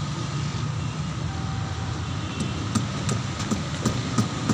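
Train passing on the nearby line: a steady low rumble, with a quick run of wheel clacks starting about halfway through.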